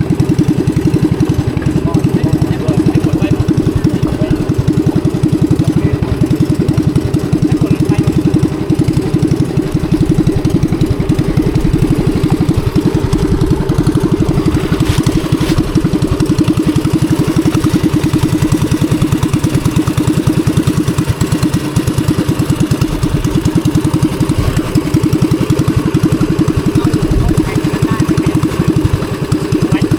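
Fishing boat's engine running steadily, a fast even chugging with most of its sound low in pitch.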